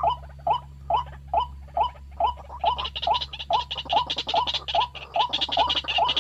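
White-breasted waterhen calling: a steady series of harsh, down-curving "kwak" notes, a little over two a second. From about a third of the way in, a faster, higher-pitched chatter joins it.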